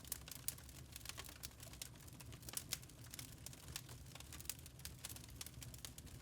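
Wood fire crackling in a fireplace: a faint, irregular stream of small sharp pops and snaps over a low rumble of the burning fire, with a few louder snaps.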